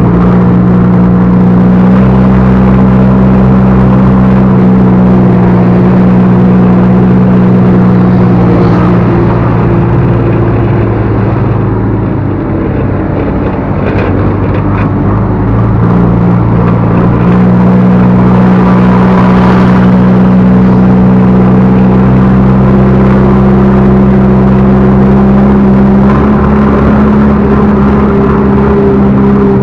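Backhoe loader's diesel engine running steadily at working speed, its hum easing off for a few seconds about halfway through before picking back up.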